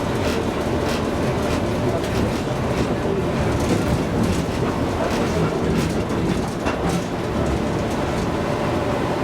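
Tram car running along the rails: a steady rumble with irregular clicks of the wheels over rail joints.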